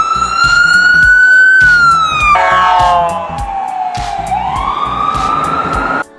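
Emergency-vehicle siren wailing. The pitch climbs slowly, then falls; a second, fuller-toned wail dips and climbs again, then cuts off suddenly just before the end. Background music with a steady beat runs underneath.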